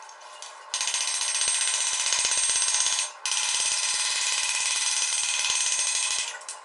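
Power grinder grinding steel in two long, steady passes with a short break between them.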